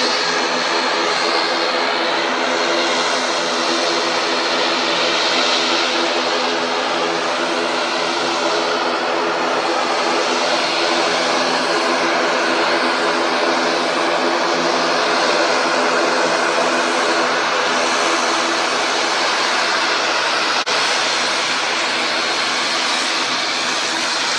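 Airliner engines running steadily and close: a loud, even rush with a steady hum of several fixed tones that neither rises nor falls.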